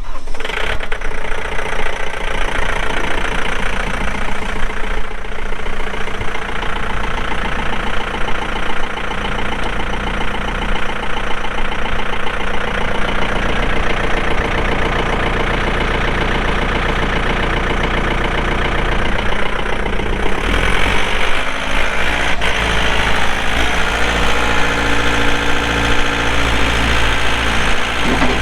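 John Deere 4320 tractor's 48 hp Yanmar diesel engine starting and then running steadily at idle. About twenty seconds in, the engine note changes and gets slightly louder.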